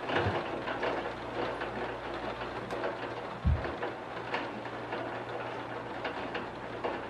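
Rain falling against window glass, a steady hiss with scattered louder drops, over a low steady rumble. Two short, dull low thumps come through, one just after the start and a louder one about three and a half seconds in.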